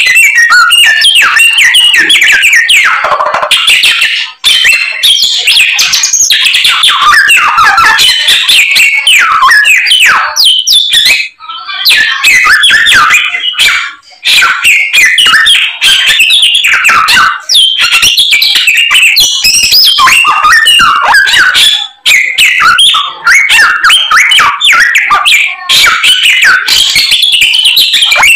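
Samyong songbird singing loudly and almost without stop: rapid, varied whistles and chattering phrases full of mimicked calls, broken by a few short pauses.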